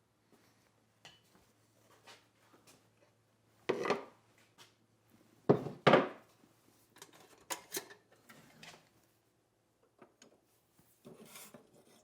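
Steel blade and tools handled on a workbench: scattered clinks, light scrapes and knocks, with the loudest knocks about four and six seconds in, over a faint steady hum.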